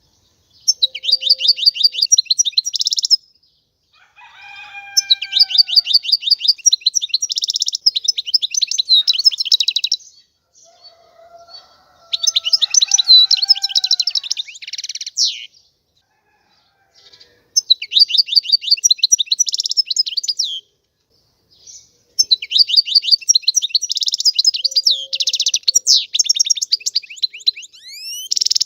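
European goldfinch singing: five bursts of fast, high twittering trills separated by short pauses, with a few lower, falling whistled notes between the phrases.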